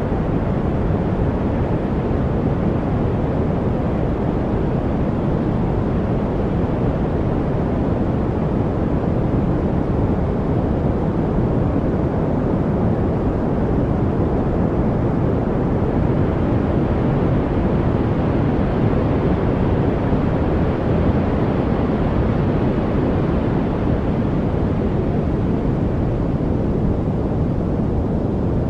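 Steady, unchanging noise for masking, deep and dull rather than hissy: most of its weight is in the low end and it fades toward the top. There are no birds, drips or other separate events.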